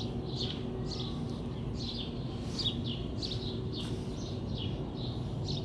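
Small birds chirping in quick, repeated short calls over a steady low background hum.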